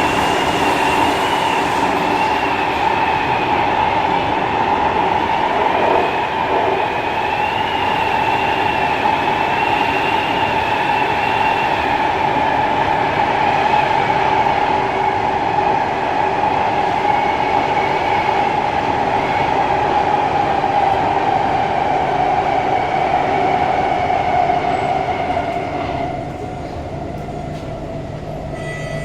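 Kawasaki C151 MRT train running on the rails, heard from inside the car: a steady rumble with a whine that slowly falls in pitch and a thin, wavering squeal above it. About three seconds before the end the noise drops noticeably quieter as the train slows.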